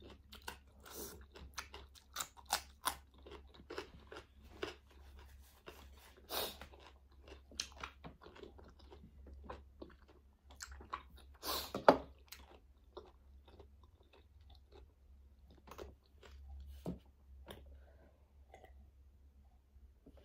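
Crunchy chewing and biting of raw cucumber slices: a run of short, wet crunches with a few louder bites, the loudest about twelve seconds in. A faint low steady hum lies underneath.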